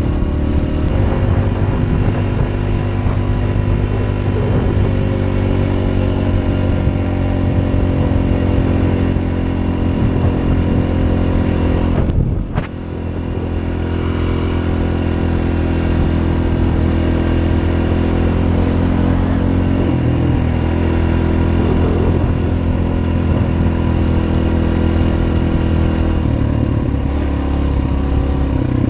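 Dirt bike engine running steadily under way, with a brief drop in engine sound about twelve seconds in before it picks up again.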